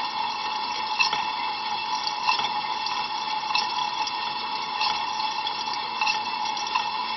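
Ariston LV 46 A IX dishwasher spraying water during a cold rinse, heard from inside the tub: a dense, steady rush of water with a sharper splash about every second and a quarter.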